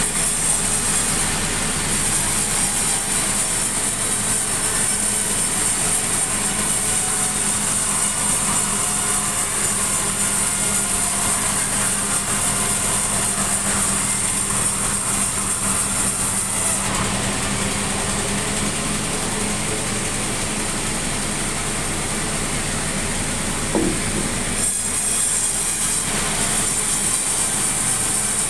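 Sawmill machinery running steadily: an engine hum with a bright, high hiss. The hiss eases off a little past halfway and comes back strongly near the end.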